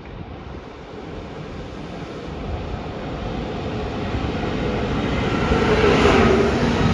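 A train approaching, its rumble growing steadily louder, with a rising whine from its motors or wheels near the end.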